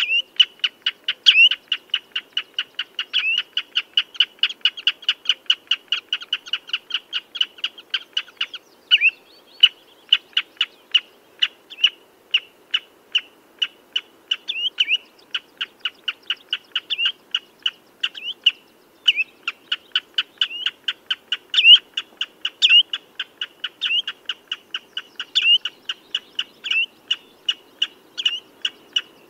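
Common redshank calling: a fast, steady train of short, sharp piping notes, about four a second, with a few louder notes that bend upward and brief gaps about nine and nineteen seconds in.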